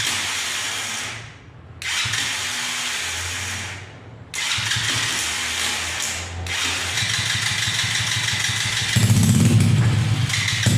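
Small petrol engine of a mini Supra car with a new exhaust, catching in short bursts that die away, then running continuously from about four seconds in and growing louder near the end.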